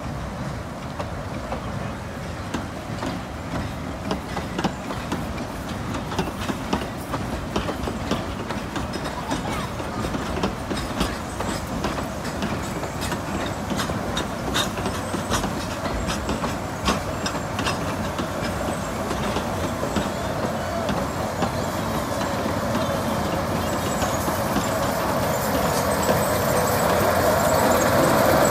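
Narrow-gauge passenger cars rolling slowly past, their wheels clicking over the rail joints. Toward the end the M-7 diesel locomotive at the rear of the train draws near and its engine grows louder.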